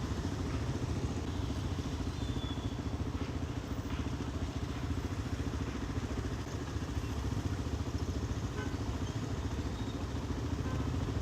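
Motorcycle engine running steadily at low speed, with no rise or fall in revs, heard from on the bike.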